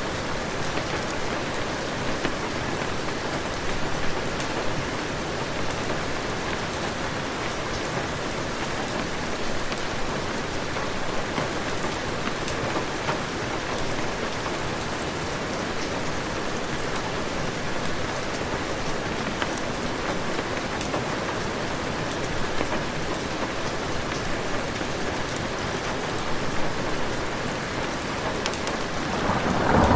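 Heavy rain falling steadily as a dense, even hiss. A low thunder rumble begins to build right at the end.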